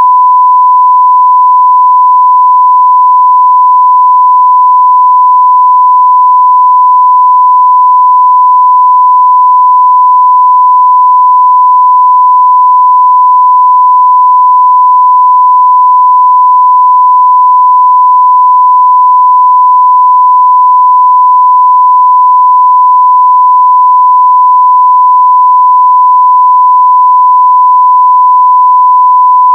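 A steady 1 kHz sine-wave test tone at near full scale (0 dB reference level), a single pure pitch that does not change.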